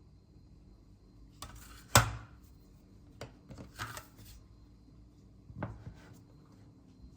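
A handful of knocks and clattering handling noises, the loudest a sharp knock about two seconds in, with smaller taps and rattles after it.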